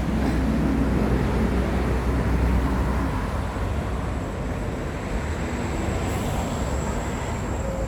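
Street traffic: vehicles passing with a steady low rumble, heavier in the first few seconds. A thin, steady high-pitched tone joins about halfway through.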